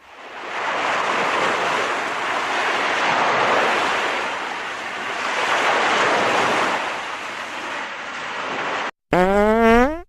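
Stock sound effects: a loud rushing noise that swells and ebbs, like breaking surf, cuts off suddenly after about nine seconds. It is followed by a comedic fart sound effect whose pitch wavers and rises.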